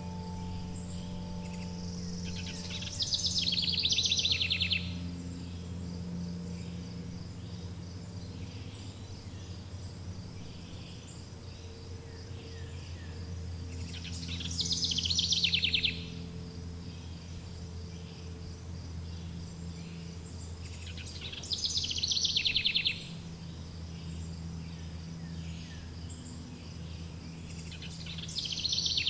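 Forest nature ambience: a loud, rapid, buzzy trill comes four times, several seconds apart, over a steady high chirring of insects. Low held tones hum underneath.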